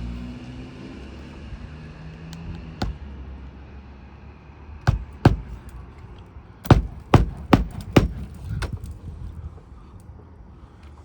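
Roofing hatchet driving roofing nails through asphalt shingles, sharp single blows: one about three seconds in, a pair near the middle, then a quick run of four.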